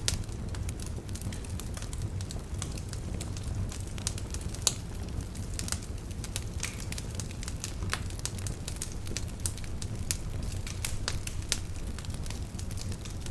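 Wood fire burning in a fireplace: irregular crackles and pops of burning logs over a steady low rumble of the flames, with one sharper pop a little before the middle.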